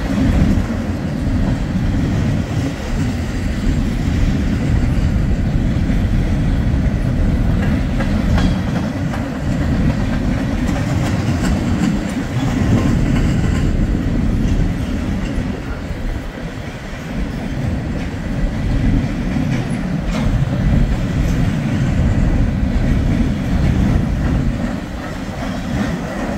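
Freight cars of a passing train rolling by with a steady heavy rumble, their wheels clicking over the rail joints.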